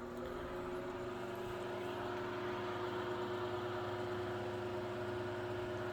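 Chicago Electric Handybreeze Model 314 12-inch table fan running, with its motor humming steadily under a rush of air from the stamped aluminum blades. It grows a little louder about two seconds in as it comes up to speed.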